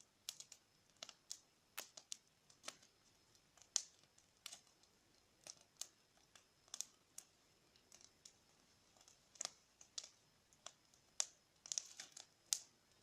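Bonfire crackling faintly: scattered, irregular sharp pops and snaps with quiet gaps between them.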